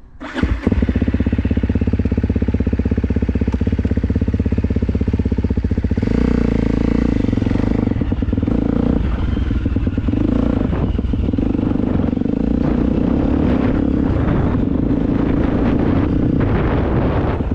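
Motocross dirt bike engine running close by, holding a steady pitch for about six seconds, then revving up and down with a rougher, changing note.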